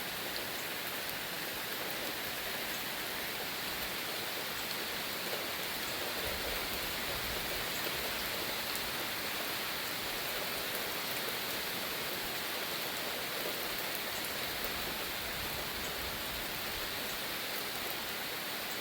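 Steady rain from a thunderstorm coming down harder, an even, unbroken wash of rain noise.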